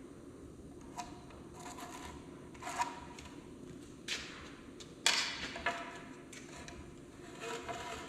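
Irregular knocks and clatter of workshop handling, about six separate hits with a short ring after some of them, the loudest about five seconds in, over a faint steady hum.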